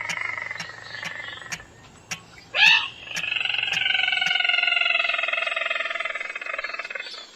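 Recorded calls of a crake (Indonesian 'sintar', red-eyed crake), the kind used as a hunting lure: a fast pulsed call that fades over the first second and a half, a sharp upward note about two and a half seconds in, then a long pulsed call, slowly falling in pitch, lasting about four seconds. A faint ticking about twice a second and a low hum run under the first four seconds.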